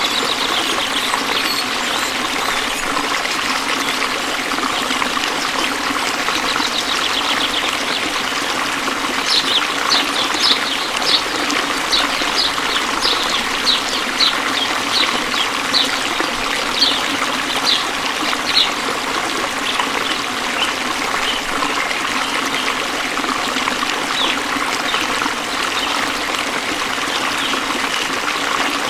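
Waterfall water falling and splashing in a steady rush. About a third of the way in, a run of short high chirps repeats for several seconds over it.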